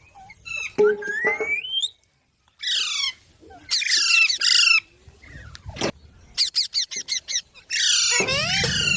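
Rose-ringed (Indian ringneck) parakeets squawking in a string of harsh, pitch-gliding calls, with a quick run of about eight short squawks in the second half and a loud burst near the end.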